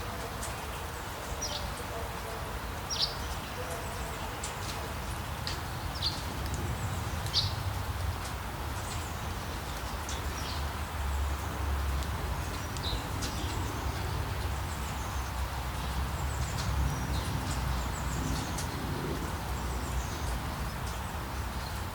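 Steady rain hiss with small birds chirping: short, high, downward-sweeping chirps, several clear ones in the first half and fainter ones later, over a steady low rumble.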